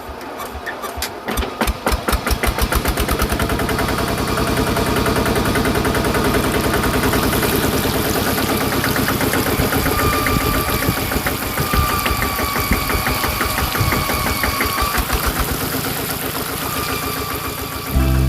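Mini diesel engine starting up and running, its even firing beat quickening over the first few seconds and then holding steady.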